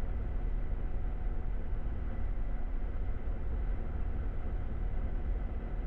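Light aircraft's piston engine running steadily at low power, heard from inside the cockpit as an even drone.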